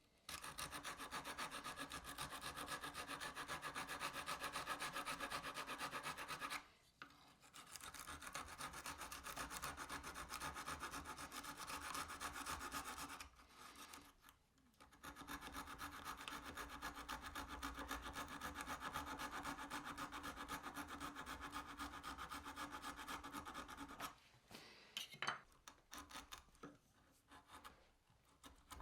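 Hand tool cutting into a canary wood plane body with rapid, steady rasping strokes. The strokes come in three long runs separated by short pauses, then give way to a few scattered softer scrapes and taps near the end.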